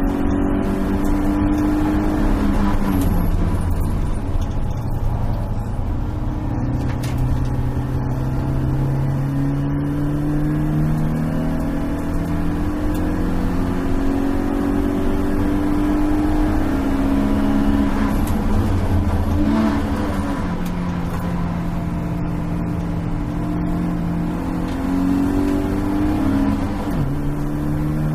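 Stock four-cylinder engine of a BMW E36 318is race car pulling hard under load, heard inside its stripped cabin. The engine note climbs steadily and drops sharply at gear changes: a few seconds in, about two-thirds through, and near the end.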